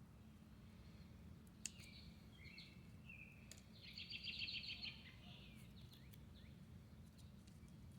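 A small bird chirping a few times, then singing a fast trill for about a second and a half, faint over a low steady background rumble, with a single sharp click about two seconds in.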